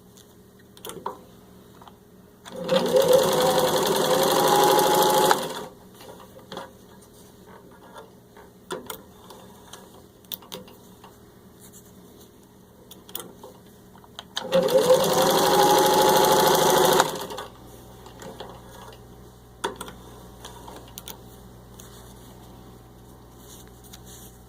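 1952 Singer 15-91 sewing machine with its gear-driven motor running in two bursts of about three seconds each, stitching through four layers of vinyl upholstery. The motor's pitch rises as it picks up speed at the start of each run. Light clicks come between the runs.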